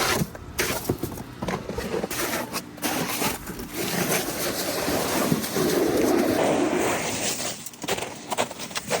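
Sleet and ice being scraped and chipped off steps: a run of short scrapes and knocks, then a longer steady scrape in the middle, then more knocks.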